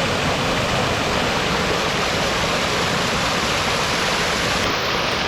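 Fast-flowing stream water rushing, a steady loud wash.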